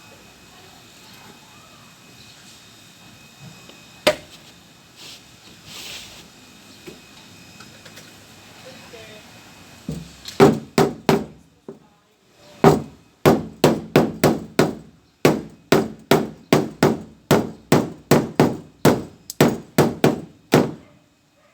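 Hammer blows on the sheet metal of a Mitsubishi L300 van's side panel, beating out the panel for repair. One sharp knock comes about four seconds in; about halfway through a quick run of blows starts, roughly three a second, with a brief pause after the first few.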